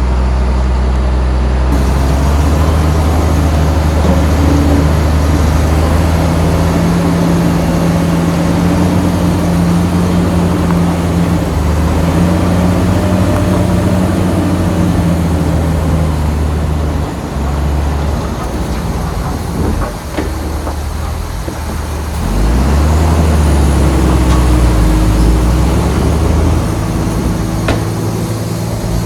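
Heavy diesel engine of construction machinery running under load, its pitch shifting as it works. Past the middle it eases off, then picks up again with a new low surge.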